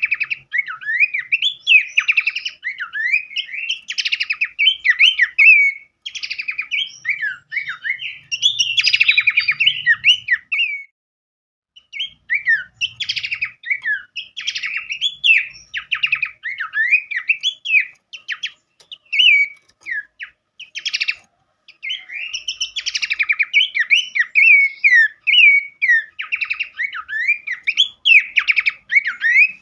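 Songbird singing a fast, varied song of quick rising and falling whistled notes mixed with rasping, buzzy trills. It breaks off briefly about eleven seconds in and then resumes.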